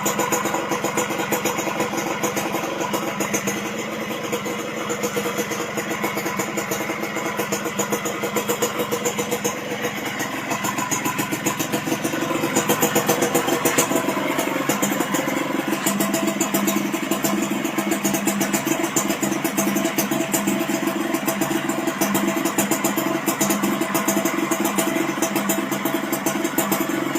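Suzuki Crystal RC110's two-stroke single-cylinder engine running through a stainless tune pipe (expansion chamber), mostly at a steady idle. The revs rise briefly about twelve seconds in, then settle.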